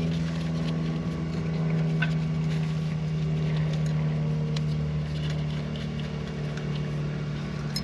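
A steady machine drone, a low hum with overtones, runs throughout. Light metallic clicks and ticks are heard as a wrench loosens the high-pressure fuel line on a diesel injector.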